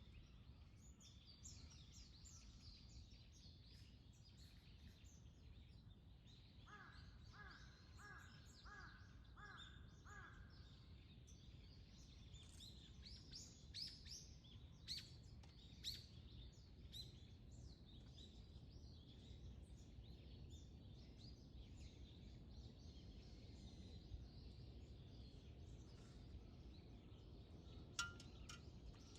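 Faint dawn birdsong: small birds chirping and calling on and off, with a short run of evenly spaced repeated notes, about two a second, a few seconds in. A steady low rumble sits underneath, and a single sharp click comes near the end.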